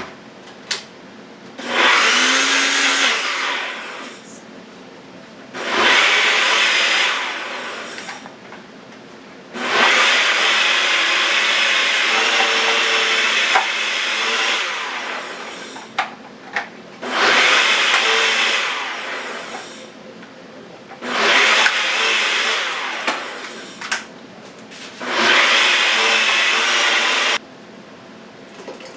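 Electric blender pureeing onions, cilantro, bell peppers, garlic and olive oil into sofrito. It runs in six pulses of about two to five seconds each, with short pauses between them.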